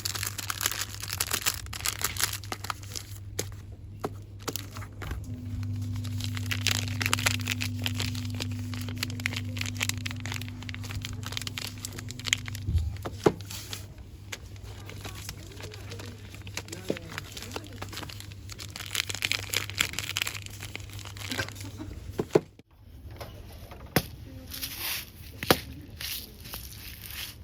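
Rapid, dense crinkling and crackling of packaging being rubbed and squeezed by hand, close to the microphone. A steady low hum sits underneath, joined by a higher steady tone for several seconds in the middle.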